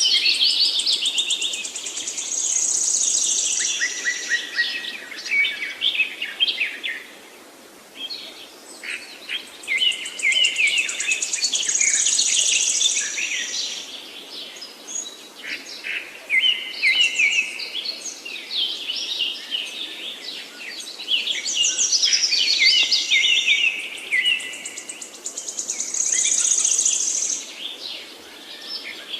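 Several songbirds singing: overlapping phrases of quick chirps, trills and whistles, coming in bursts of a few seconds with short lulls between them.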